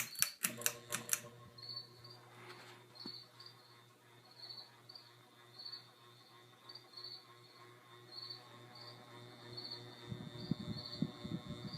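1989 SMC Laguna KB-36 ceiling fan running on medium with a steady low motor hum, after a quick run of clicks in the first second. A faint high chirp repeats about once a second, and irregular low knocks come in near the end.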